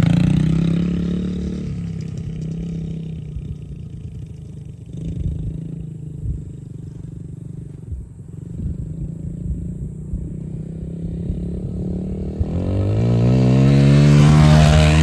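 Yamaha TT-R110 dirt bike's small four-stroke single-cylinder engine ridden in first gear: it pulls away and grows fainter, then comes back, getting louder and rising in pitch as it nears, and is loudest near the end.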